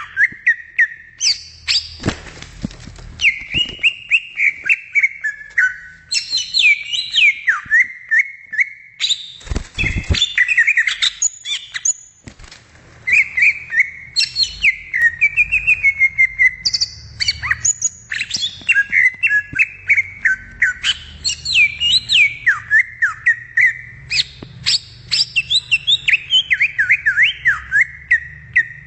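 Greater green leafbird (cucak ijo) singing: long runs of rapid, varied whistled notes that slide up and down, with short pauses between phrases. Two brief bursts of noise come about two and ten seconds in.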